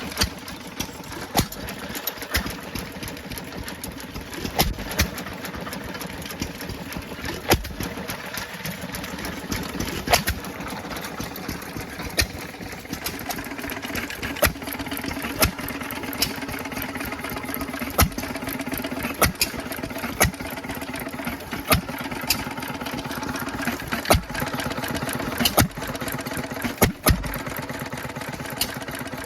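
Old stationary engines running at a show: a steady fast mechanical clatter, with loud sharp exhaust pops about every second or two at uneven intervals.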